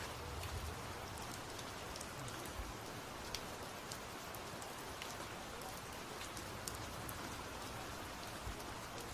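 Steady rain falling, an even hiss with scattered individual drops striking close by.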